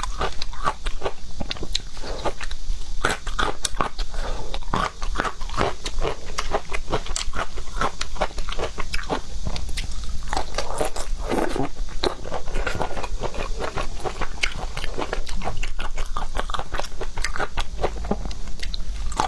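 Close-miked eating of seafood: biting and chewing with a dense, continuous run of wet clicks and crackles.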